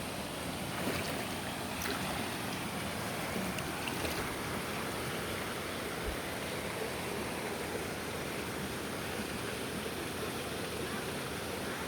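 Mountain valley stream running steadily over rocks, an even rushing of water, with a few faint ticks in the first few seconds.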